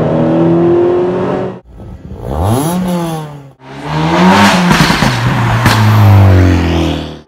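Car engine accelerating and revving in three edited snippets, each ending in a sudden cut: a steady pull rising slowly in pitch, then a rev that climbs and falls back, then a loud rev that rises and drops to a lower, heavier note.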